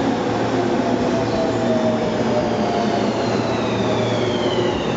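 Tobu 30000-series electric train running into the platform: a steady rumble of wheels and running gear, with a high electric motor whine falling steadily in pitch as the train slows.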